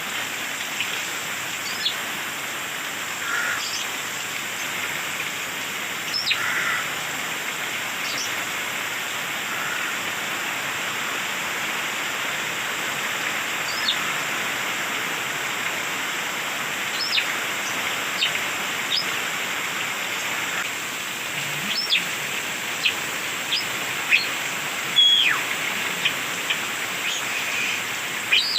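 Coleto (bald starling) giving short, sharp downward-sweeping whistles and squeaks now and then, coming more often in the second half. A steady hiss lies underneath.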